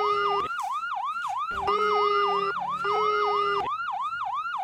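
Electronic ambulance siren sounding a fast, odd-sounding pattern: the pitch dips and rises about three times a second. A steady lower tone cuts in and out alongside it, giving a warbling two-part sound.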